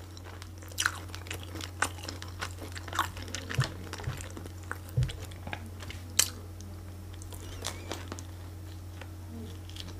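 Close-miked mouth sounds of someone chewing and biting food, with scattered wet clicks and crunches about once a second, over a low steady hum.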